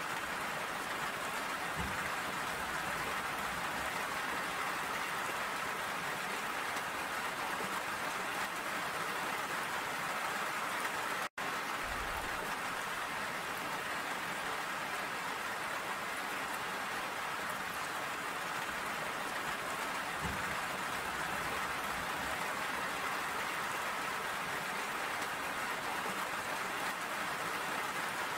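Steady rain falling, an even hiss of many drops; the sound cuts out for an instant about eleven seconds in.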